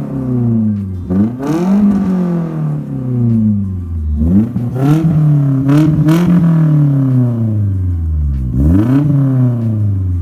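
1989 Nissan 240SX's engine and exhaust through a new Flowtech Red Hot glasspack muffler, revving up quickly and then falling away slowly, three times. It has a good solid tone, with a little of the cackle still left.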